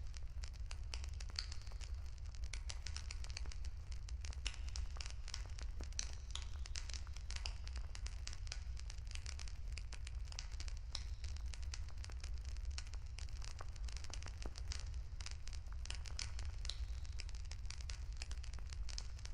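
Wood bonfire crackling, with many small irregular pops and snaps over a steady low rumble.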